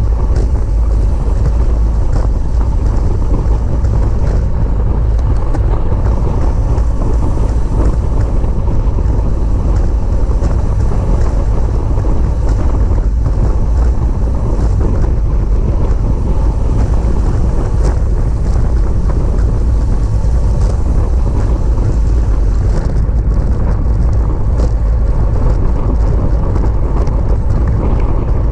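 Steady, loud wind noise on the microphone of a camera riding along on a racing bicycle at speed.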